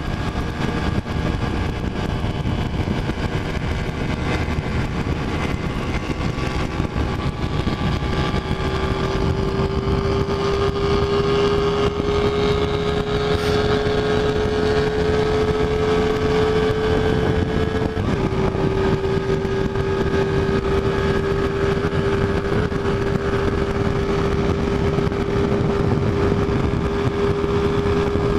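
Motorcycle engine running under way with a steady rush of road and wind noise. The engine note climbs slowly, drops suddenly about eighteen seconds in as the rider shifts up a gear, then holds steady.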